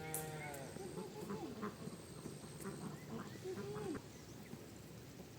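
Ducks quacking, a series of short calls one after another.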